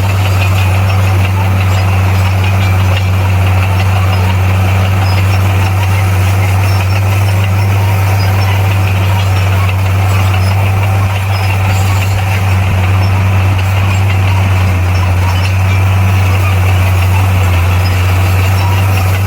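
Bulldozer's diesel engine running steadily, a deep even hum with no change in pitch.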